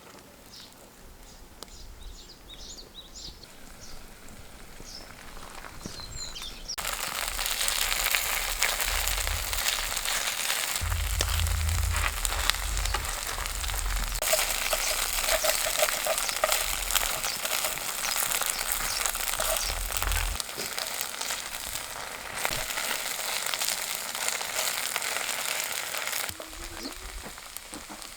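Kimchijeon (kimchi pancake) batter frying in oil in a pan. The sizzling starts suddenly and loud about a quarter of the way in, crackles steadily, and drops away near the end.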